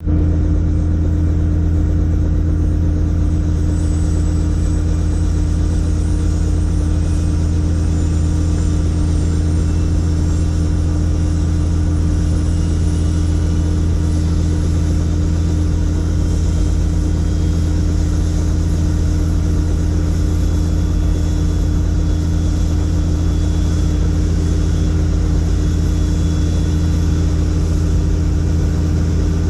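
A helicopter in flight, heard from inside the cabin: a loud, steady low drone of the engine and rotor, with a faint high whine that rises slowly.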